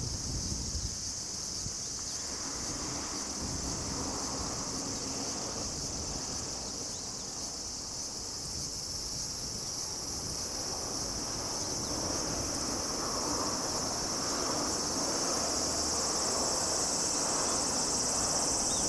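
Insects chirring steadily in a high-pitched, continuous chorus, with a faster ticking pulse in the first half, growing a little louder in the second half.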